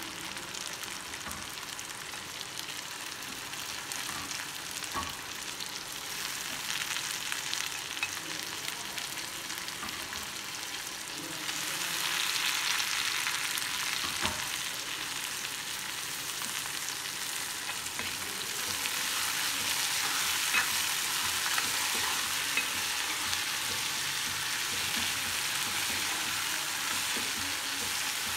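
Chopped onions and tomatoes sizzling in oil in a kadai, with a few light taps of the spatula against the pan. The sizzle gets louder about twelve seconds in and again a few seconds before the end.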